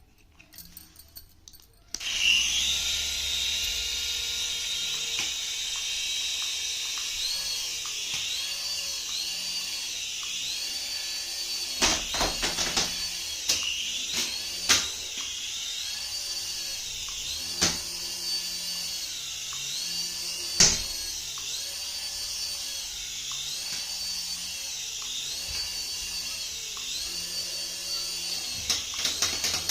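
Small electric motor of a battery-powered toy running with a high-pitched whine that starts suddenly about two seconds in. The pitch wavers in a pattern that repeats a little more than once a second, and a few sharp clicks or knocks come through.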